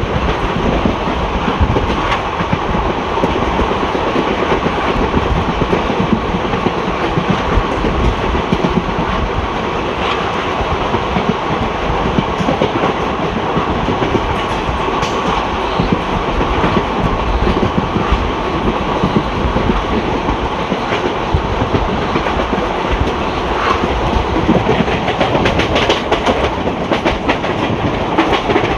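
ICF passenger coach running on the rails, its wheels and bogies rumbling and clattering over the rail joints, with a denser run of clatter a few seconds before the end.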